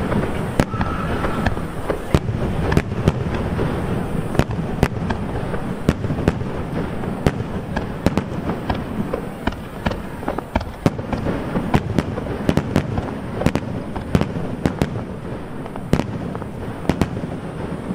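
Aerial firework shells bursting overhead, many sharp bangs in quick irregular succession over a continuous low rumble.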